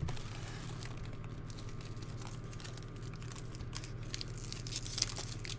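Intermittent crinkling and rustling of foil trading-card pack wrappers being handled, with a sharper crinkle near the end.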